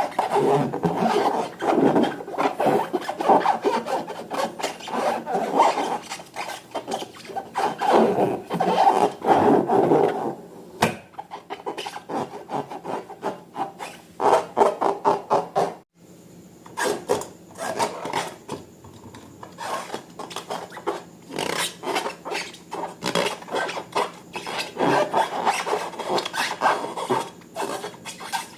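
Slime being worked and mixed, a rough rubbing and scraping sound in uneven strokes, with a brief break about sixteen seconds in.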